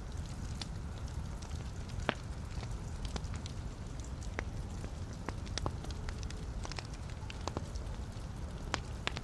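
Log fire in a fireplace crackling: a steady low rumble of flames with frequent sharp, irregular pops and snaps from the burning wood.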